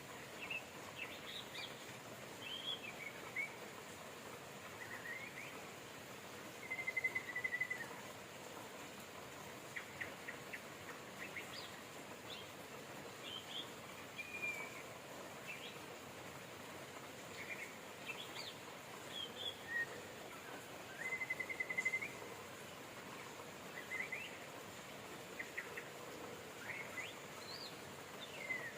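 Birds chirping over a steady hiss of rain, with short rising and falling calls and two louder trills, about seven seconds in and again near 21 seconds.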